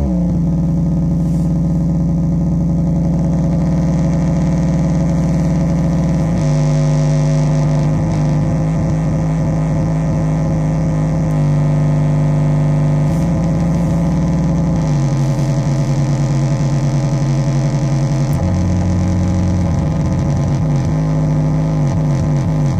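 Metsään Dirty Drone anarchy vers2.1 synth, with three interacting triangle-wave oscillators, playing a loud, continuous buzzing drone. Its pitch and tone jump to a new steady setting several times, every few seconds.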